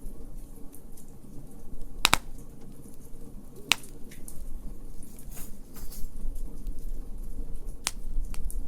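Wood fire crackling in a fire pit: a low steady rumble with a few sharp pops, the loudest about two seconds in, and fainter ticks between them.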